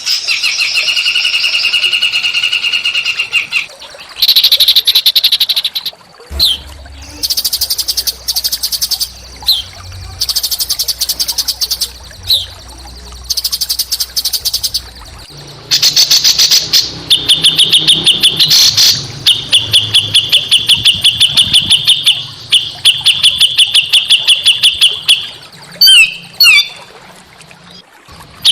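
Small songbird singing a run of rough, rapid trills and rattling chatter, phrases of a second or two separated by short pauses, with a few brief whistled notes between them.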